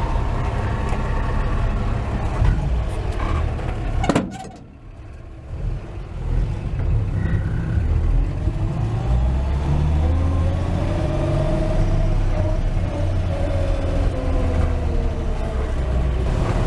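1949 Chevrolet 3100 pickup's 235 inline-six running through its dual exhaust while the truck drives. The engine eases off briefly about four seconds in, then picks up, its note rising and falling again later.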